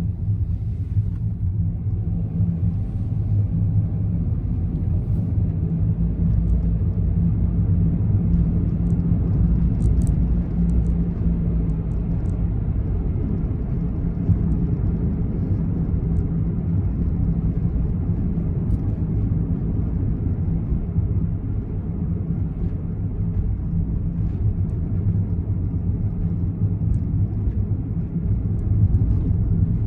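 Honda N-BOX (JF1) with its S07A three-cylinder engine, heard from inside the cabin as a steady low rumble with a low, even hum that changes little.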